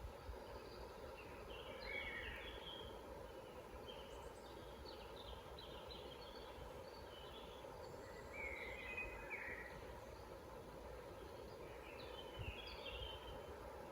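Faint forest birdsong: short chirping phrases from small birds about every few seconds, over a steady low background noise.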